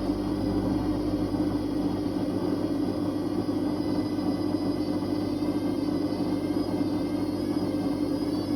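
Whirlpool Indiana 1400 front-loading washing machine spinning at high speed: a steady whine over a constant rumble.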